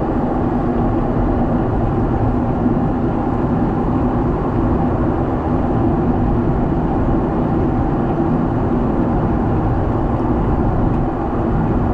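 Boeing 777 airliner in flight, heard from inside the passenger cabin: a steady roar of engine and airflow noise with a low hum running under it.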